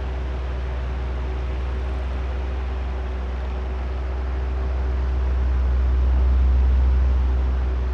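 Oscillating electric fan running steadily: an even rush of air with a faint steady motor hum, swelling once about five seconds in and easing near the end as the fan head turns across.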